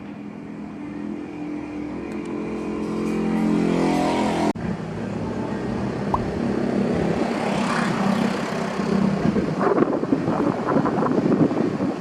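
A motor vehicle engine accelerating, its pitch and loudness rising over the first four seconds, then breaking off suddenly. After the break an engine runs steadily under a rushing noise that grows rougher toward the end.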